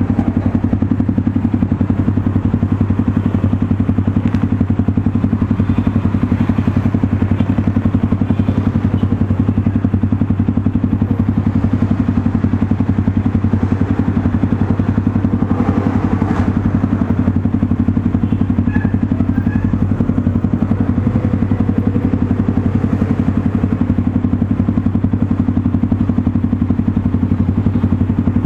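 Motorstar Cafe 400's single-cylinder engine idling steadily through an SC Project slip-on exhaust, with an even, low pulsing note that holds the same pitch throughout.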